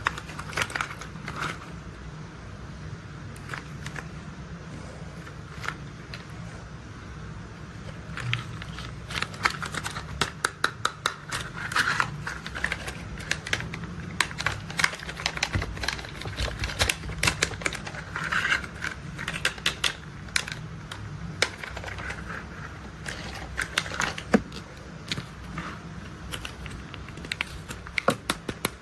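Plastic toy construction vehicles being handled, giving quick irregular clicks and clatter in small clusters over a steady low hum.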